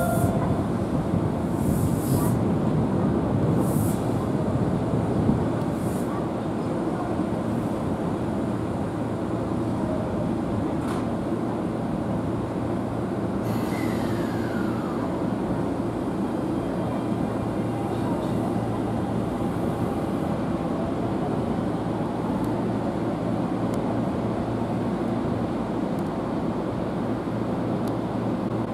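Seibu Railway 6000 series electric trains moving at a station, a steady rumble of wheels on the rails. In the first few seconds there are short high hisses about every two seconds, and about halfway through a brief falling whine.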